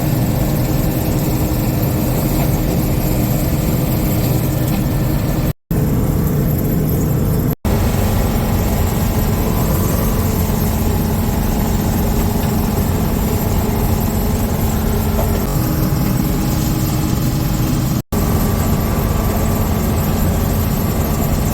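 Combine harvester running steadily under harvesting load, a constant engine and machinery drone. The sound drops out abruptly for a moment three times: about five and a half seconds in, about seven and a half seconds in, and about eighteen seconds in.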